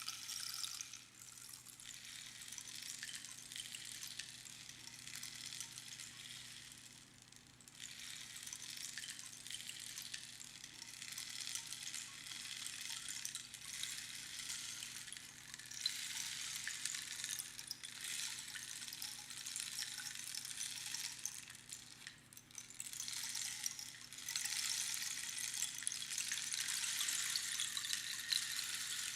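Rainstick being tipped over and over, its pebbles trickling down past the inner pins with a hiss like falling rain. Each cascade swells and fades, with brief lulls where the stick is turned, about a second in, near seven seconds and past twenty-two seconds.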